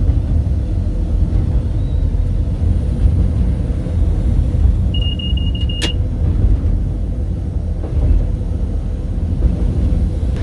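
Steady heavy low rumble of a diesel train running, with a short high beep about five seconds in that ends in a sharp click.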